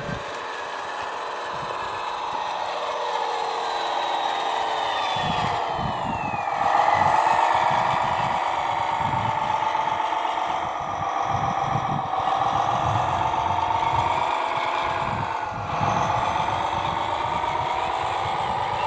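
Electric drive of a radio-controlled scale Hayes HD logging truck, its cordless-screwdriver gearbox with the slip clutch welded solid, whining as the truck drives under a test load. The whine falls in pitch over the first several seconds and then holds, with an uneven low rumble of the drivetrain and wheels working from about five seconds in.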